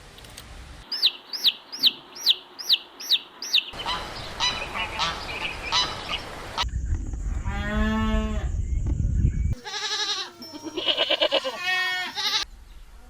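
Farm animal and poultry calls in a series of short clips: a run of about seven quick, high, falling chirps, then one long drawn-out call, then a string of honking calls.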